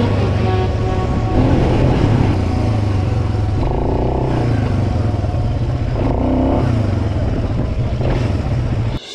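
Off-road vehicle engine running and revving, its pitch rising and falling several times; it cuts off abruptly just before the end.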